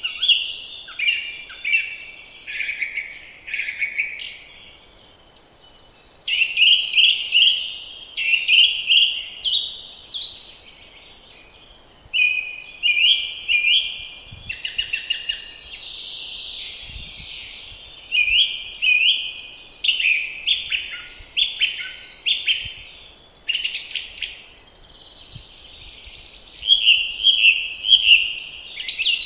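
Spring songbirds singing, several birds giving short repeated phrases one after another almost without pause, over a faint steady background hiss.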